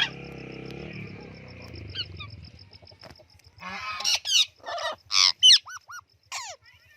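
Parrot squawking: a sharp call at the start, then from about halfway in a quick run of loud, short calls that swoop up and down in pitch.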